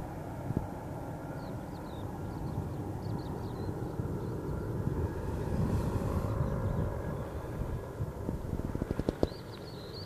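Military helicopter flying low overhead: a steady rotor and engine rumble that swells louder about halfway through, then eases off. Faint bird chirps are heard above it.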